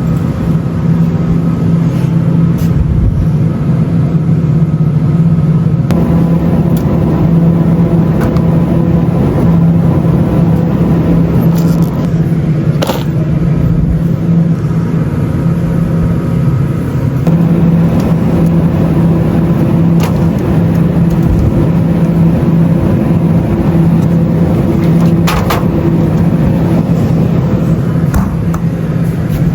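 Steady car engine and road noise heard from inside a moving car, a constant low drone with a couple of brief knocks.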